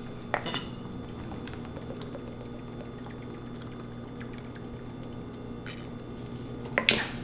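Quiet liquid sounds of drinking water, with a few small clicks and louder short sounds near the end, over a steady low hum.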